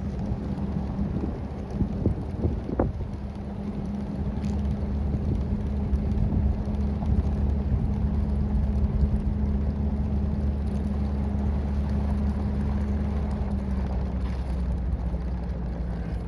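Jeep Wrangler driving, heard from inside the cabin: a steady low engine and road drone that grows a little louder after about five seconds, with a single light click about three seconds in.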